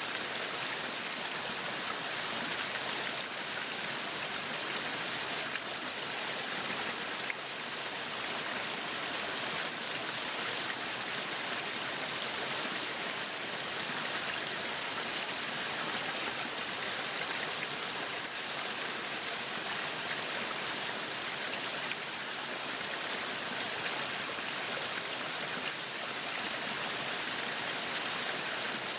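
Meat sizzling on a yakiniku grill, a steady even hiss.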